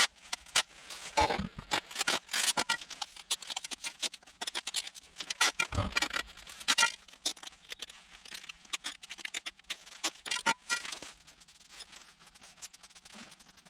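Narrow pointing iron scraping and tapping on stone paving slabs, working dry jointing compound down into the joints: a busy run of irregular scrapes and clicks with a couple of dull knocks.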